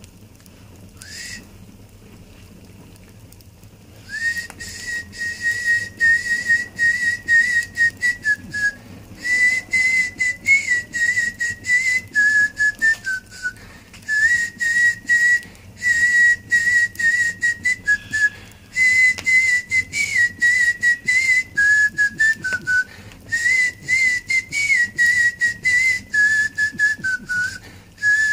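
Whistling: a tune of short, breathy notes that moves up and down within a narrow range, starting about four seconds in after a single brief note.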